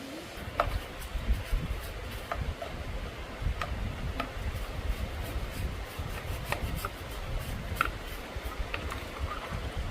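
Hand work on motorcycle parts: irregular rubbing and scraping with scattered light clicks and knocks.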